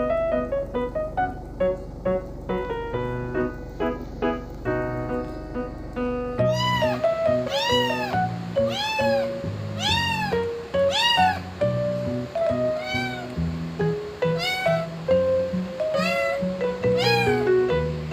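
Background piano music, then from about six seconds in a young kitten meowing over it, about a dozen short rise-and-fall meows roughly one a second.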